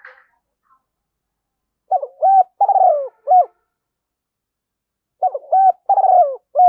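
Spotted dove cooing: two phrases of several rounded notes each, about three seconds apart. This is the dove's calling song, used as a lure call to draw in other doves.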